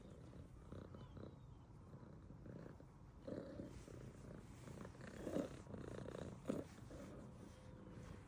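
Domestic cat purring steadily, with three short louder sounds about three, five and six and a half seconds in.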